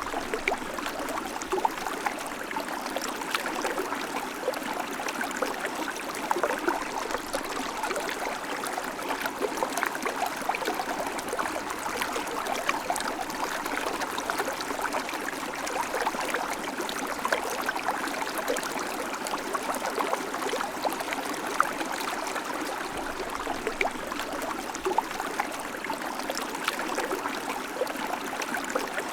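River water flowing steadily over stones, with a constant rush and many small splashes and gurgles.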